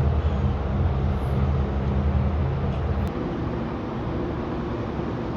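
A vehicle engine running with a low, steady rumble; about three seconds in it changes abruptly to a rougher, lower rumble.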